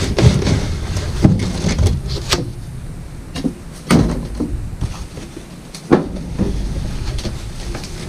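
Unpacking a diesel heater from its cardboard box: irregular knocks, scrapes and rustles of cardboard and packing as the heater is lifted out, with sharper knocks near the start and about four and six seconds in.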